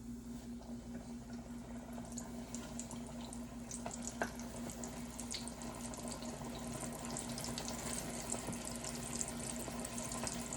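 Flour-coated chicken wings sizzling and crackling in hot frying oil, the crackle growing denser as they fry.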